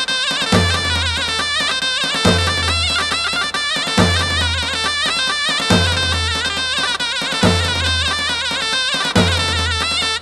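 Slow, heavy halay folk music: a reedy zurna-style melody wavering with dense ornaments over deep davul strokes, one heavy beat about every 1.7 seconds, each with a long low boom.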